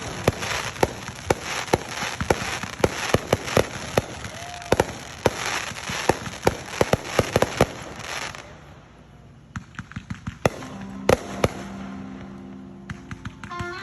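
Fireworks going off: a dense, rapid run of pops and bangs for about eight seconds, then thinning to scattered separate bangs.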